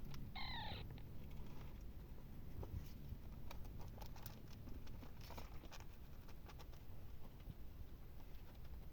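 Newborn kitten giving one short high mew about half a second in, dropping in pitch at the end, followed by faint scattered clicks and rustles over a low background hum.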